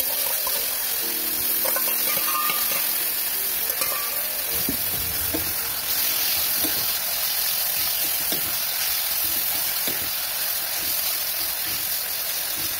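Chicken pieces sizzling steadily in hot oil in an iron kadai, stirred with a metal spatula that scrapes the pan now and then.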